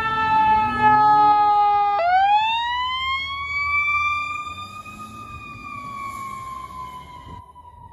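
Fire engine siren wailing. A long, slowly falling tone dips sharply about two seconds in, climbs slowly back up, then eases down again, growing fainter over the second half.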